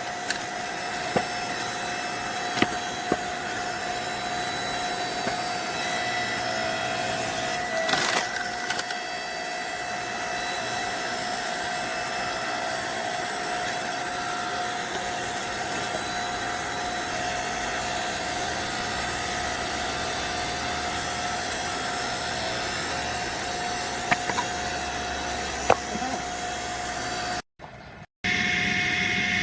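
Log splitter running steadily with a constant hum, with a few sharp cracks of logs splitting along the grain, the biggest about eight seconds in. The sound drops out briefly near the end.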